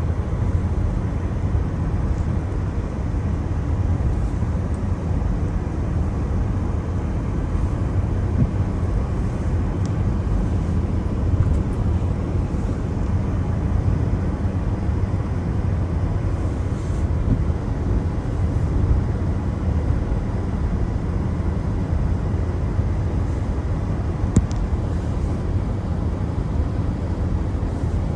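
Car driving on a wet road in the rain: a steady low rumble of road and tyre noise, with a few faint ticks now and then.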